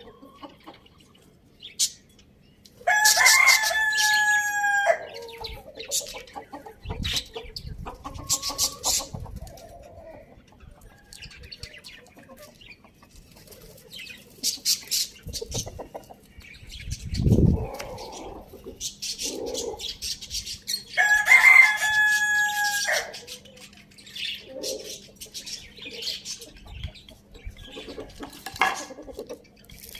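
Rooster crowing twice, each crow about two seconds long, the first about three seconds in and the second past the middle, with chickens clucking and small birds chirping in between. A low thump sounds a little past the middle.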